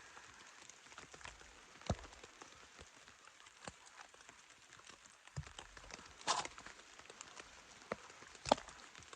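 Sparse, irregular water drips tapping on the shelter's fabric, over a faint hiss, with a brief rustle about six seconds in.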